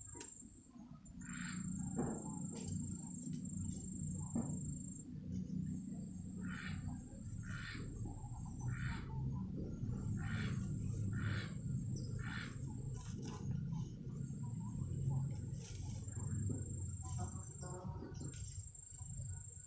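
Rural outdoor ambience with a high, steady insect trill that stops briefly every few seconds, about a dozen short chirping calls, and a constant low rumble underneath.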